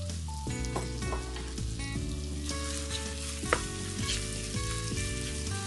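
Marinated chicken pieces sizzling as they fry in a little oil in a nonstick pan, stirred with a spatula, with a sharp tap about three and a half seconds in. Background music with held notes plays underneath.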